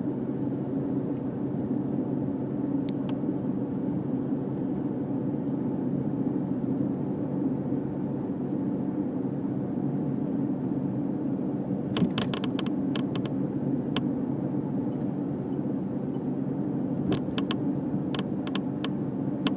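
Dodge Charger SXT's 3.5 L V6 with a Pypes Street Pro cat-back exhaust cruising steadily at around 1,750 to 2,000 rpm, a low, even exhaust hum with no drone. A few light clicks come about halfway through and again near the end.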